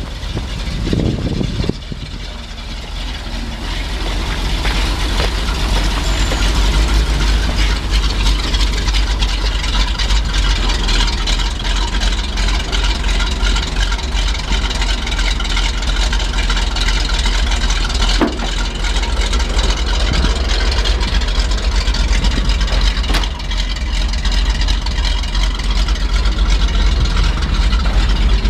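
1974 Chevrolet C65 grain truck engine running steadily with a deep rumble, getting louder a few seconds in, with a couple of brief clicks later on.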